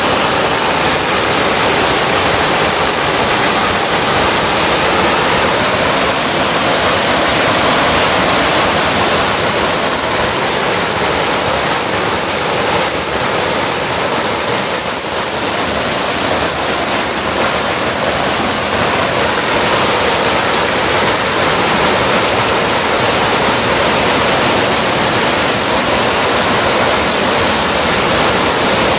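Strings of firecrackers going off without a break, a dense, steady crackling roar of countless small bangs.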